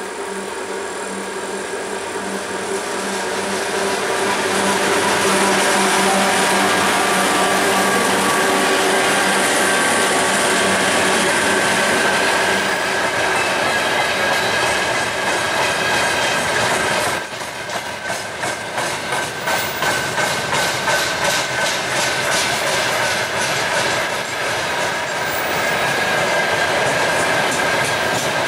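2TE116 twin-section diesel locomotive running under power as it pulls a freight train past. It is followed by freight wagons rolling by, their wheels clicking over the rail joints in a steady clickety-clack from a little past halfway.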